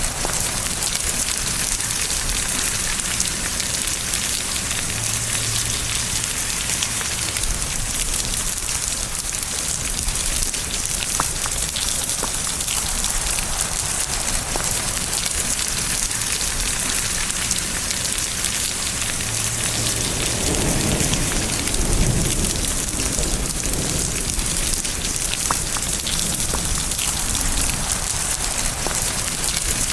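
Steady heavy rain falling, with a low roll of thunder lasting a few seconds about two-thirds of the way through.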